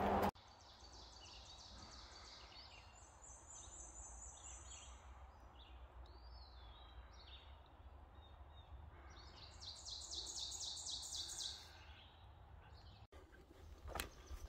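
Songbirds singing in woodland: a high, rapid series of repeated notes about three seconds in, and a louder trill of quick repeated notes about ten seconds in, over a faint steady background. Footsteps on the dirt trail come in near the end.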